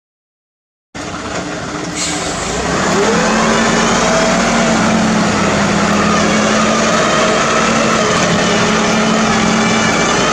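Hino truck's diesel engine running steadily under a load. The sound cuts in suddenly about a second in and builds over the next two seconds, then holds level with slowly shifting engine tones.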